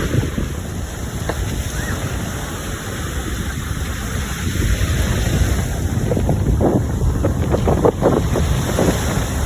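Strong wind buffeting the microphone with a heavy low rumble, over the sound of sea waves breaking on the shore.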